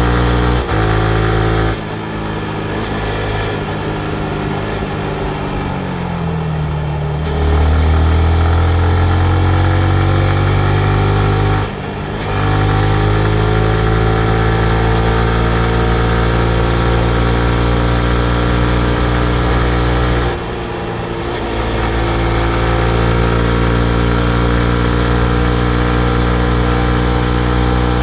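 2019 Yamaha MT-15's single-cylinder 155 cc engine under way. Its note falls for about five seconds as the bike slows, then rises steadily as it pulls away through the gears, with brief drops at the shifts about 12 and 20 seconds in.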